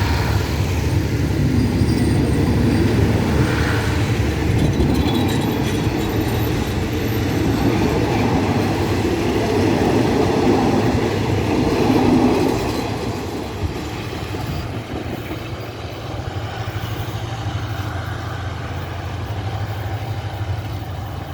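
Passenger train running past on the rails, with a dense rumble and wheel clatter. About two-thirds of the way through it drops away, leaving a steadier, quieter low hum.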